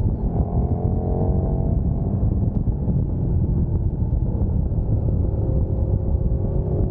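Sport motorcycle engine heard from on board at speed: its note climbs under acceleration for the first couple of seconds, then holds steady, over a heavy rumble of wind and road.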